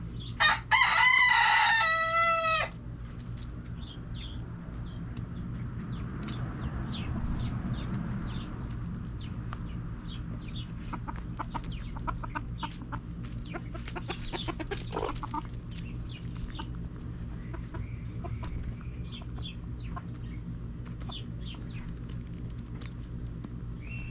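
A rooster crows once, a loud call of about two seconds starting half a second in. Scattered short clucks and clicks from the flock follow, over a steady low hum.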